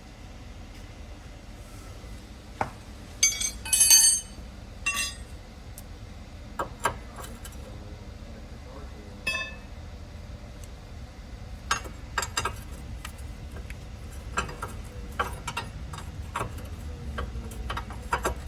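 Metal hand tools clinking and clanking, with sockets and a wrench being picked up and fitted to a suspension fastener. A few ringing metallic clinks come a few seconds in, the loudest about four seconds in, followed later by scattered short clicks and knocks over a steady low hum.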